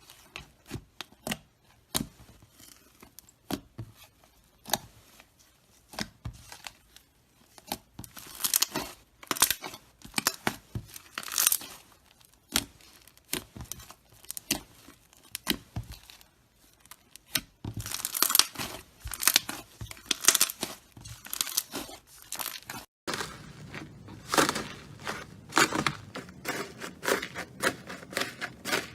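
Slime being squeezed and stretched by hand, giving sharp crackling pops and clicks in irregular clusters. About three quarters of the way through the sound breaks off abruptly and a new stretch of similar crackling begins.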